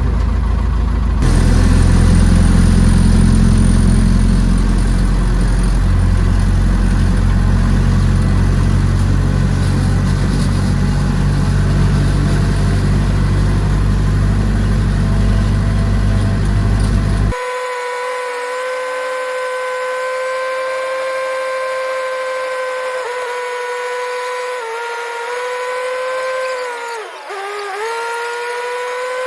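A heavy engine, likely the backhoe tractor's diesel, running steadily. About seventeen seconds in it cuts off abruptly, and a steady pitched whine takes over that dips in pitch briefly a few times near the end.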